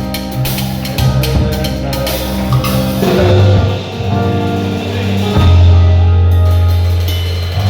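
Band music with a drum kit and bass holding long low notes. The cymbals drop away about six seconds in, leaving the sustained bass and chords.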